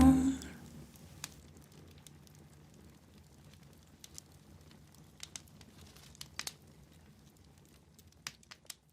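The song's last chord dies away within about half a second. Then faint room tone follows, broken by about ten sharp, irregularly spaced crackles and clicks.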